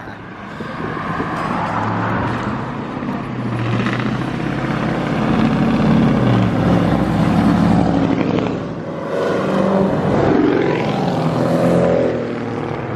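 Car engines running and revving, the pitch climbing and falling several times.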